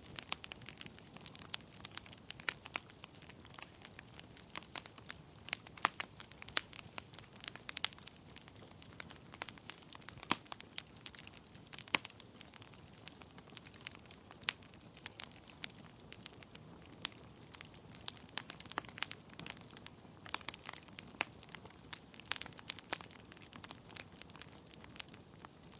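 Wood fire burning in a fireplace: logs crackling and popping in quick irregular snaps over a soft steady hiss of flame.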